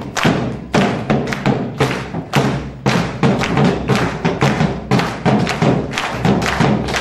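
Argentine folk music with a fast, steady beat of loud percussive thumps, about three a second, over the instruments.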